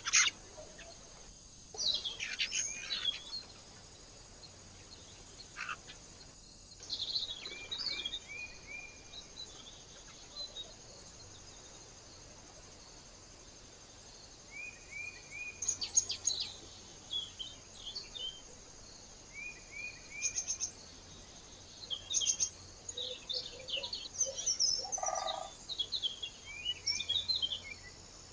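Small birds chirping and calling in scattered short bursts, among them repeated runs of three or four quick falling notes, over a faint steady outdoor hiss.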